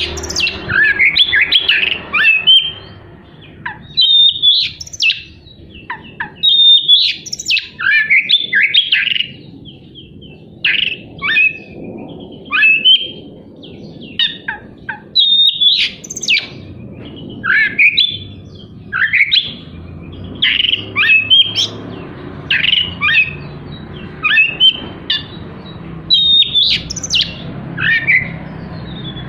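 Oriental magpie-robin (kacer) singing a loud, varied song of short phrases with short pauses between. Many of the phrases are sharp, steeply falling whistles, the harsh 'shot' notes (tembakan kasar) that keepers prize in this bird.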